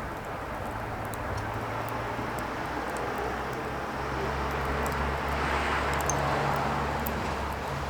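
Firewood burning, with a steady hiss and scattered sharp crackles and pops. Under it a low hum builds and grows louder from about four seconds in.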